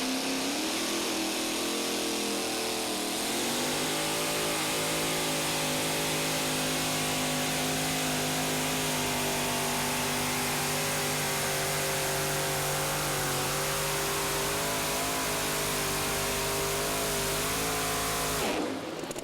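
Modified pulling-tractor engine at full throttle during a pull. It climbs in pitch, steps up again about three seconds in, then holds high, steady revs for some fifteen seconds before cutting off suddenly.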